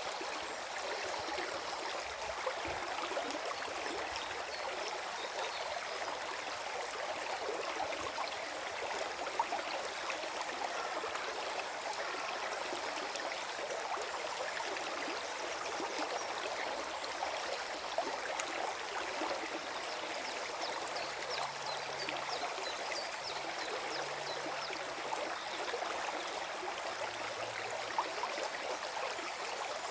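Forest stream flowing and gurgling: a steady rush of water with many small trickling splashes, and a few slightly louder splashes now and then.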